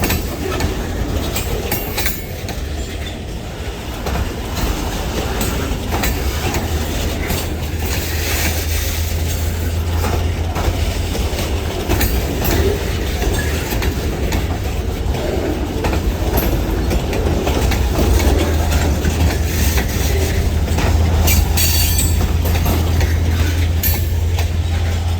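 Freight train rolling past, its wheels clicking over rail joints over a steady low rumble that grows slowly louder.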